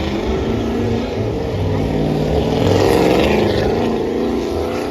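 Truck engine running, growing louder toward a peak about three seconds in and then easing off.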